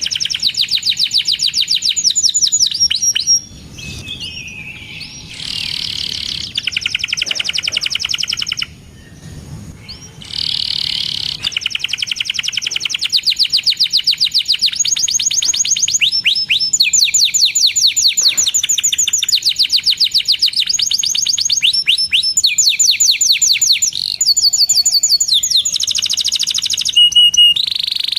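Domestic canary singing: long, fast trills of rapidly repeated high chirping notes, broken by two brief lulls in the first third.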